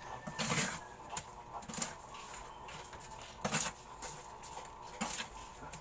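A handful of short, scattered knocks and clatters, as of parts and tools being handled while starting work on a kitchen sink.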